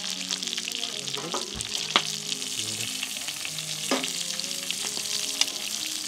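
Food sizzling and crackling as it fries in hot oil, with sharp knocks about two and four seconds in.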